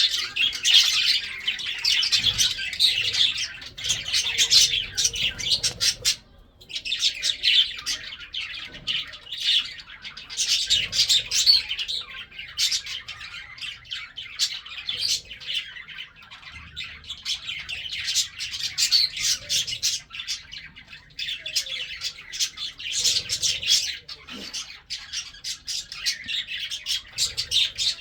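Lovebirds chattering: a dense, continuous run of rapid high chirps, with a brief pause about six seconds in.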